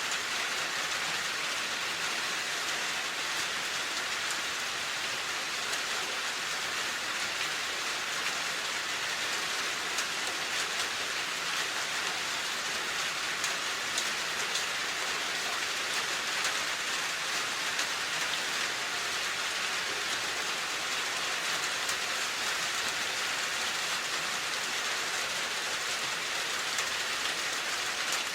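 Steady rain falling, an even hiss with the fine patter of drops.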